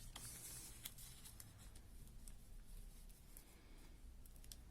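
Faint rustling and a few light crinkles of origami paper being folded and handled, mostly in the first second and a half, otherwise near silence.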